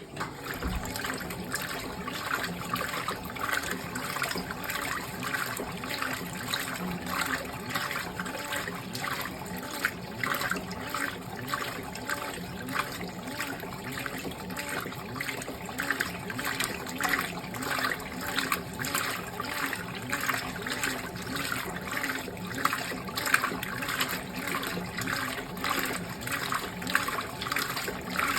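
Fisher & Paykel GW712 top-loading washing machine agitating a load of darks: water sloshing and swishing in a steady back-and-forth rhythm, roughly two to three strokes a second, starting abruptly.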